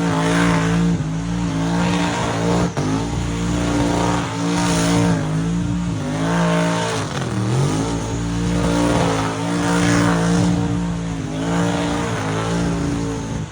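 Car engine held at high revs during a burnout, with the revs dipping briefly and climbing back a few times, over a steady hiss of spinning tyres.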